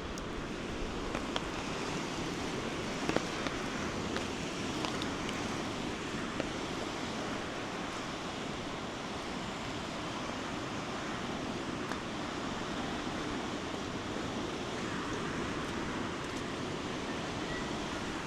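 Steady rush of a flood-swollen river flowing fast, with a few light clicks in the first few seconds.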